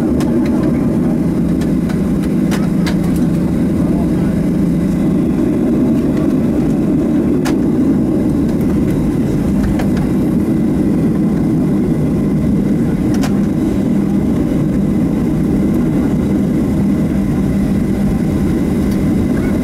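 Boeing 737-700's CFM56-7B jet engines running steadily, heard from inside the cabin as a loud, even low rumble with a steady hum. A few faint clicks sound over it.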